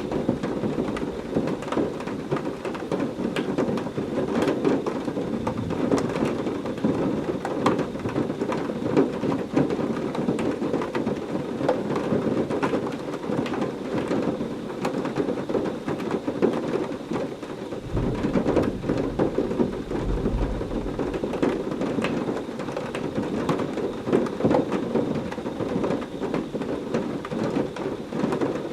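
Heavy rain pouring steadily, with many close drop impacts. A low rumble of thunder rolls in about two-thirds of the way through.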